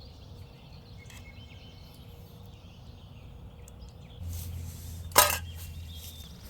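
Outdoor woodland ambience with faint bird chirps, then a single sharp crack a little past five seconds in, the loudest sound, over a low hum.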